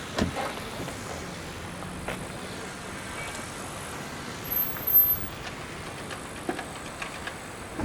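Steady outdoor background noise, like road traffic, with scattered small knocks and a louder thump about five seconds in.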